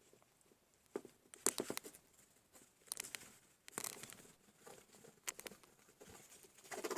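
Faint, scattered rustling and light tapping, a handling sound, coming in short separate bursts about once a second.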